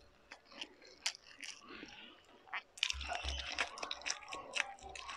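Close-miked eating sounds: a person chewing food, with sparse wet mouth clicks at first, then a denser run of chewing clicks and low thumps from about three seconds in as she takes another mouthful by hand.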